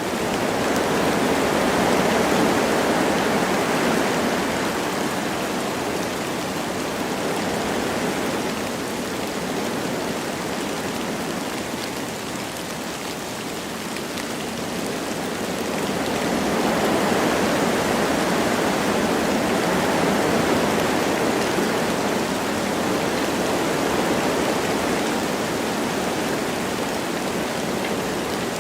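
Wind blowing through forest trees with light rain, a steady rushing that swells in gusts twice, with a lull in between.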